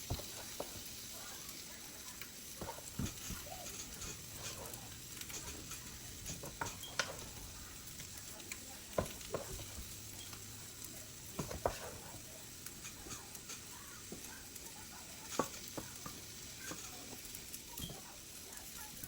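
Food sizzling in a hot skillet while mashed potato is spread in over cheese, with scattered clicks and scrapes of a utensil against the pan.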